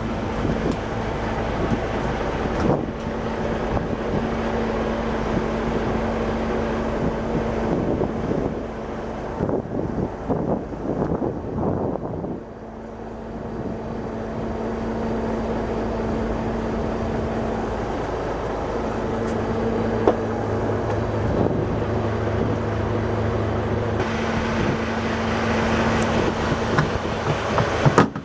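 A 49-foot cabin boat's inboard engine running with a steady low hum, with wind noise on the microphone; the sound dips briefly about halfway through.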